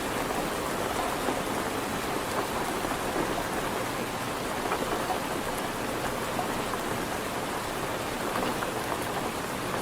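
Steady rain falling: an even, unbroken hiss of rain with no letup.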